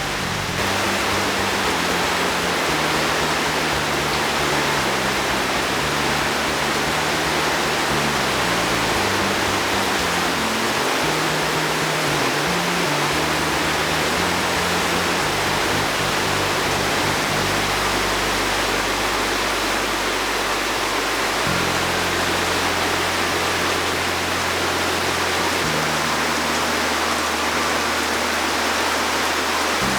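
A torrent of muddy rainwater runoff gives a loud, steady rush of water, with background music's low notes moving underneath.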